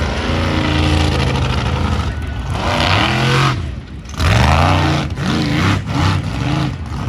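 Bounty Hunter monster truck's supercharged V8 engine revving hard and easing off in swells as the truck is held up on its front wheels in a nose wheelie. The engine drops away briefly just before four seconds in, then surges back up.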